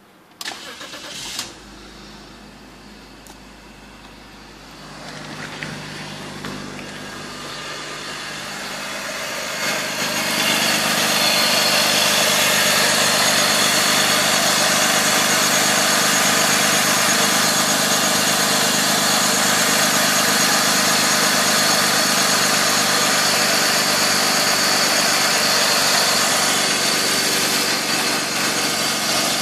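BMW M54B25 2.5-litre straight-six engine, started from near cold: a brief burst about a second in, then the running engine grows louder over several seconds and settles into a steady idle.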